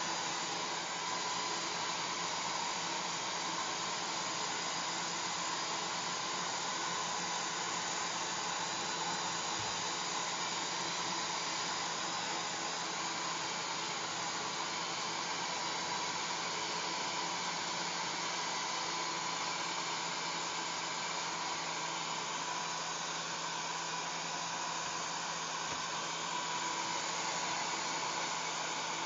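Hair dryer blowing steadily: an even rushing hiss of air over a constant motor hum, unchanging throughout.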